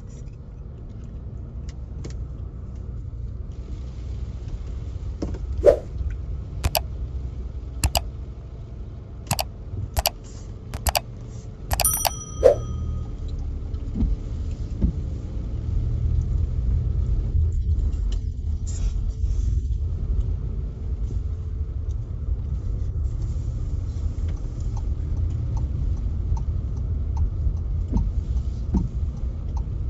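Car cabin on the move: a steady low rumble from the engine and road with a faint hiss over it. A run of sharp clicks comes roughly once a second from about five seconds in to about thirteen seconds in; one near the middle briefly rings.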